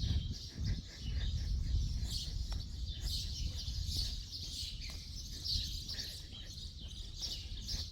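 A crowd of birds chirping and twittering together in a dense, continuous chorus, over a low rumble on the microphone.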